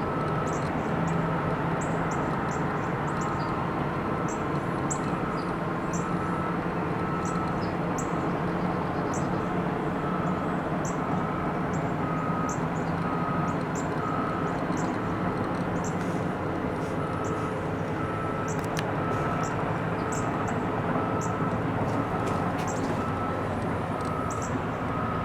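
Distant heavy earthmoving machinery, trackhoes and bulldozers, running as a steady low rumble, with a reversing alarm beeping at one pitch about once a second. Short high chirps come and go over it.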